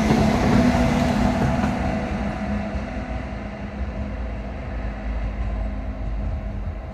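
Intercity train passing close by, its coaches rolling over the rails with a rumble and a low steady hum. The train is led on this end by a DB Class 101 electric locomotive, and the sound fades gradually after about two seconds as it pulls away.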